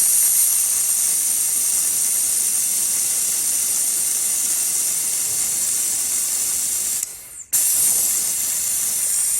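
Air-powered vacuum brake bleeder hissing steadily as it draws brake fluid through the motorcycle's front brake line. The hiss cuts out for a moment about seven seconds in, then starts again.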